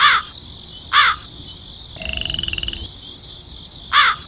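Animal calls: two short, harsh, falling calls a second apart, then a rasping, rapidly pulsed croak, and the pair of calls again near the end, all over a steady high-pitched hiss like an insect chorus.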